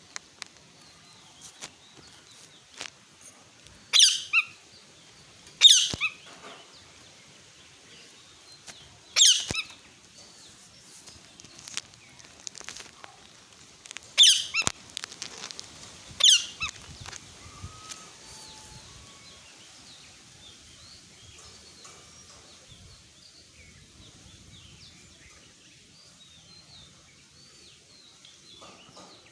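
Parrot giving five loud, harsh screeches of about half a second each, a few seconds apart, in the first half; after that only faint short chirps are heard.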